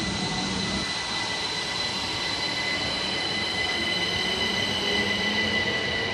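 Southeastern Class 377 Electrostar electric multiple unit running through the station, a steady rumble of wheels and motors with a high, steady whine over it.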